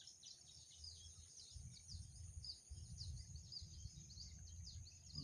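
Faint rice-field ambience: many short, quick high chirps over a steady high-pitched insect-like hum and a low rumble.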